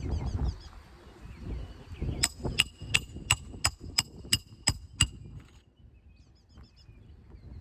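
A hammer striking a metal roof snake tool about nine times, roughly three blows a second, each blow with a short metallic ring, driving roofing nails back in under a shingle. Faint bird chirps before and after.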